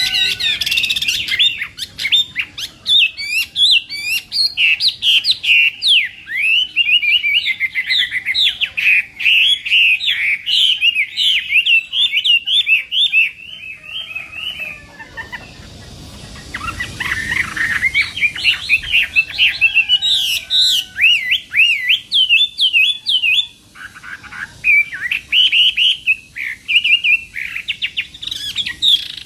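Chinese hwamei singing a rapid, varied song of high whistled notes, breaking off for about two seconds near the middle before starting again.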